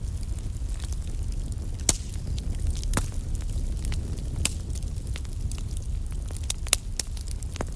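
Wood fire burning in a fireplace: a steady low rumble with scattered sharp crackles and pops from the logs, a few louder pops about two, three and nearly seven seconds in.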